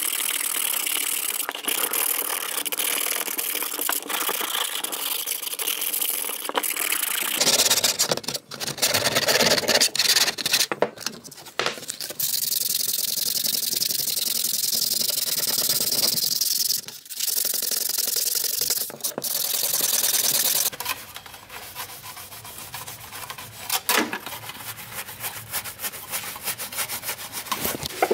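Sanding during rust removal, in several stretches of steady rasping, broken up by clicks and knocks.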